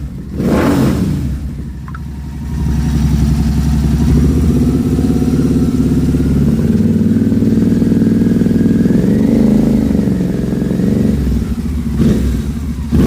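Royal Enfield Continental GT 650's parallel-twin engine running through a Red Rooster aftermarket exhaust. There is a quick throttle blip just after the start, then the revs are held steady for about eight seconds, swelling slightly near the end before dropping back. Another short blip comes at the end.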